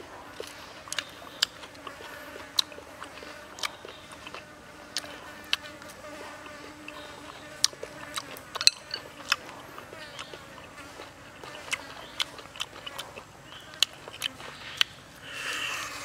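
Close-up eating sounds: irregular sharp smacks and clicks of chewing grilled chicken wing, with a faint insect buzz underneath. A louder, rougher bite comes near the end.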